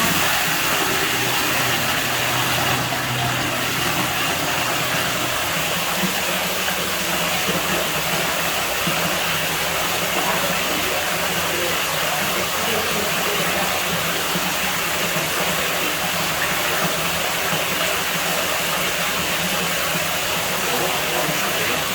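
Water running steadily into a pool villa's pool or tub: a constant, unbroken rushing hiss with a faint low hum underneath.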